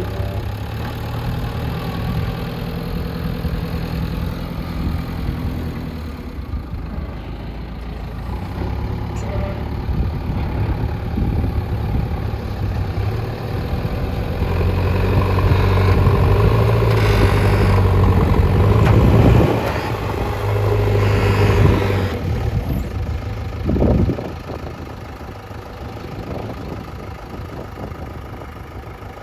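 JCB backhoe loader's diesel engine running, revving harder under load for several seconds midway, then dropping back toward idle, with a short louder noise a few seconds later.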